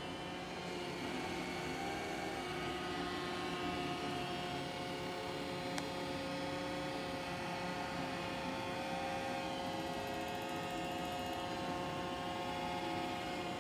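Roomba j7+ robot vacuum running: a steady motor hum and whine made of several held tones, some wavering slightly in pitch. A single light click about six seconds in.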